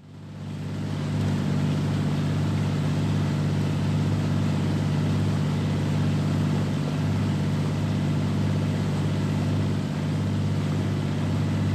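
Small boat's motor running steadily at a constant speed, fading in over the first second.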